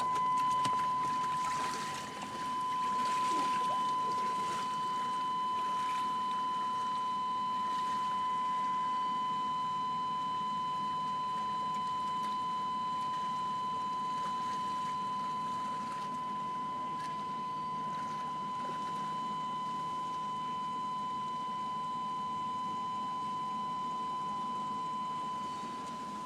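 A steady, high-pitched electronic tone held unbroken over the low noise of a truck wading slowly through floodwater.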